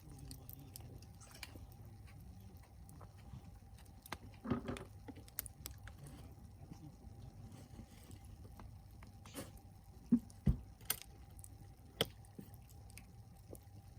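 Log bonfire burning with a low steady rush and scattered sharp crackles and pops, a cluster of them about ten seconds in.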